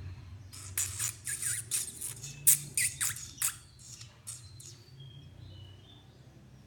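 A bird giving a rapid run of about a dozen sharp, high squawks over some three seconds, followed by a few faint thin whistles.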